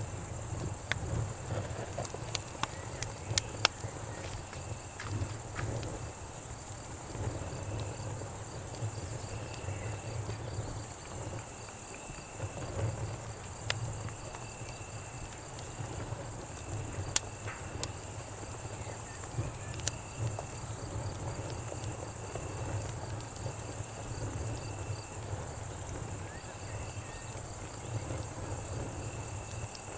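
Night insect chorus of cicadas and crickets: a steady high buzz with a short chirp repeating every second or two. A campfire crackles over it with scattered sharp pops, more of them in the first few seconds. A low rumble runs underneath.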